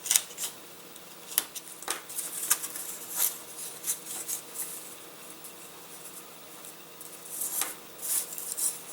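Laser-cut balsa parts being popped and cut free from a balsa sheet: scattered light clicks, snaps and scrapes, thickest near the end.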